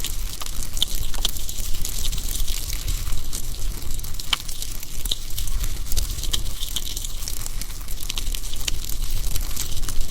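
AI-generated campfire sound: a wood fire crackling steadily with many small sharp pops, over a low rumble.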